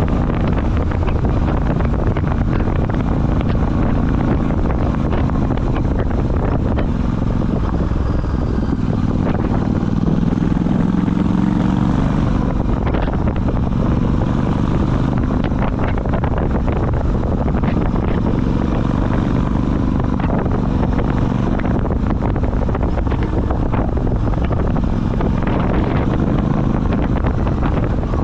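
Royal Enfield Super Meteor 650's parallel-twin engine running while the motorcycle is ridden along, its note rising and settling with the throttle about ten seconds in, with wind buffeting the microphone.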